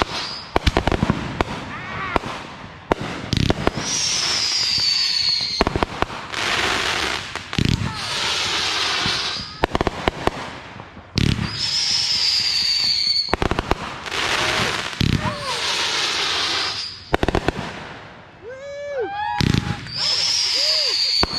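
Consumer fireworks going off: many sharp bangs and crackles, with several stretches of hissing, three of them carrying a high falling whistle. Voices shout briefly near the end.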